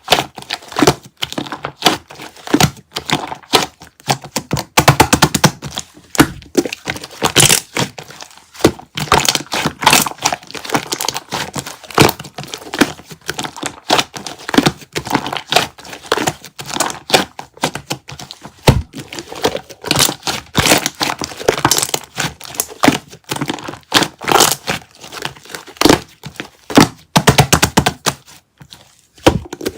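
Close-miked crackling and crinkling with light knocks, in dense irregular runs, from some material being shaved.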